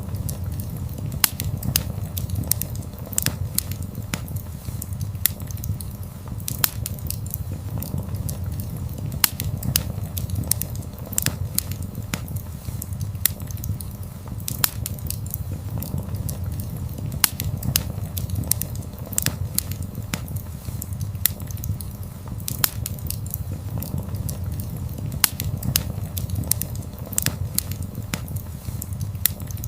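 Wood fire burning: a steady low rumble of flames with frequent, irregular sharp crackles and pops of burning wood.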